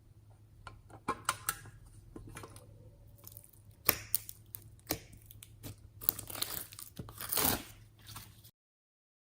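Slime being handled and mixed: irregular sticky crackles, pops and crinkly clicks. Near the end the sound drops out abruptly for about a second.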